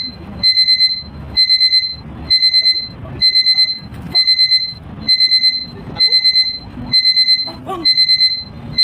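Electronic alarm beeper sounding a high beep in quick groups of four, one group about every second, with duller knocks and noise between the groups.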